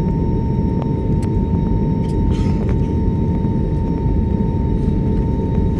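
Steady cabin rumble of a jet airliner taxiing after landing, with a constant high tone from the engines running through it.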